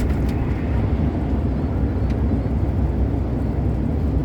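Truck engine and road noise heard inside the cab at cruising speed: a steady low rumble, with a faint tick about two seconds in.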